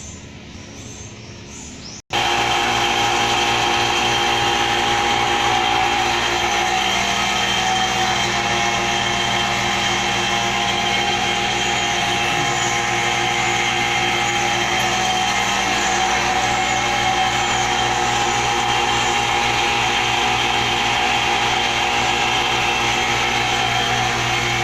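A motor running steadily with a constant hum and whine, starting abruptly at a cut about two seconds in.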